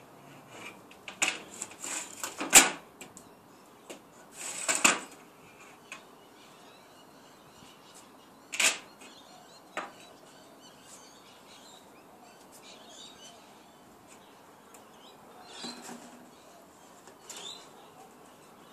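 Scattered knocks and clatters from handling an aluminium window screen frame. A cluster comes in the first few seconds, the loudest a sharp knock, then single knocks come further apart.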